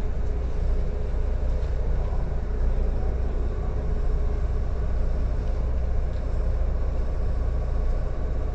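JR 115 series electric train running along the line, heard from inside the carriage: a steady, even rolling noise with a strong low rumble.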